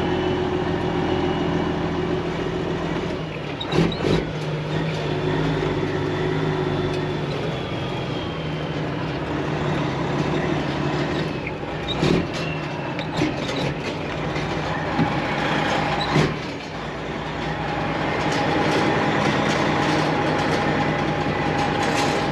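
Semi truck's diesel engine running at low speed, heard from inside the cab, with a steady rumble and rattle. Several sharp knocks sound, about four seconds in and again around twelve, thirteen and sixteen seconds.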